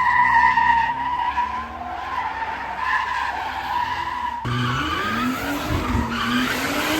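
Car tires squealing in a long continuous skid, with the engine revving under load. About four and a half seconds in the engine note climbs and the squeal begins to waver.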